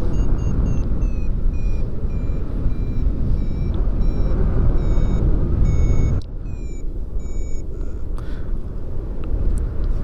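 Paragliding variometer beeping about twice a second, the beeps stepping slowly down in pitch and stopping about three-quarters of the way through: the climb tone of the glider rising in a thermal. Wind rush from the flight airflow over the microphone underneath, dropping sharply about six seconds in.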